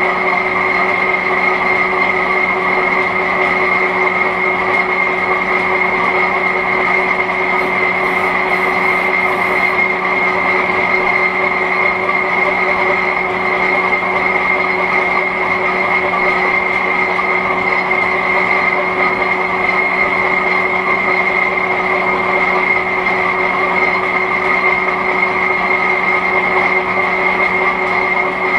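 Vintage Hendey flat-belt-drive lathe running slowly in back gear under a heavy turning cut with a high-speed-steel tool, a loud, steady mechanical hum with a constant high whine over it.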